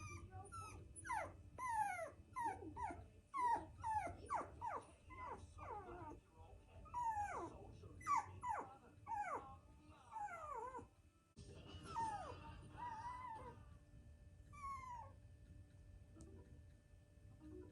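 Havapoo puppy whining and yelping in a rapid series of high cries that fall in pitch, fretting at being crated at night. The cries thin out over the last few seconds.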